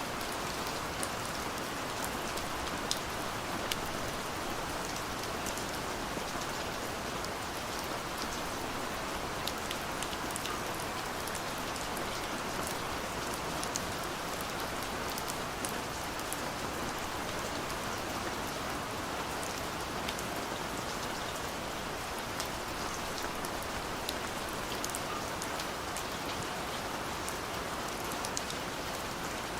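Steady light rain falling, a continuous hiss with many small drops ticking on surfaces.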